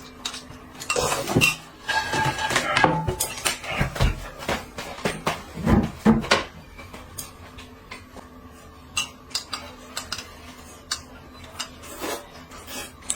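Eating utensils clinking and scraping against dishes and bowls, busy through the first half and then only occasional clicks.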